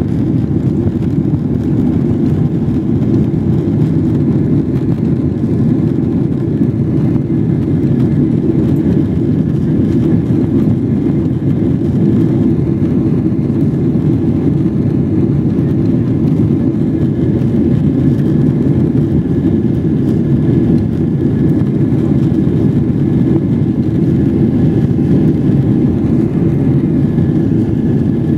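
Cabin noise of a Boeing 777-300ER on departure: its GE90-115B engines run at high thrust with a loud, steady rush and faint high whining tones over it.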